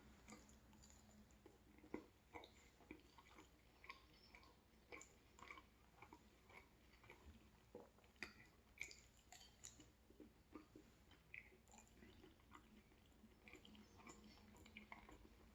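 Faint chewing and mouth sounds of a person eating: irregular soft wet clicks and smacks.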